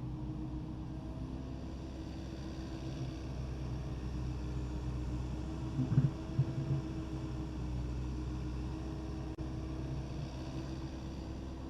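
Takeuchi TB260 excavator's diesel engine running steadily, with a short cluster of loud knocks about halfway through.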